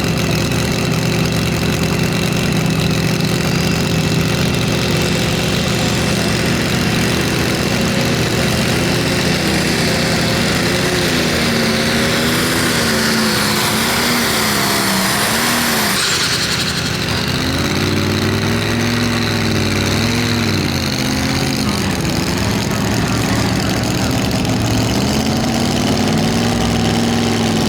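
Pro stock pulling tractor's single-turbo diesel engine running hard, with a high turbo whine that climbs, holds, then drops away suddenly about sixteen seconds in. Afterwards the engine revs rise and fall in swells.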